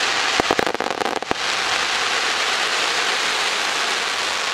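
Ground fireworks fountain spraying sparks with a steady rushing hiss, and a few sharp cracks and pops in the first second or so.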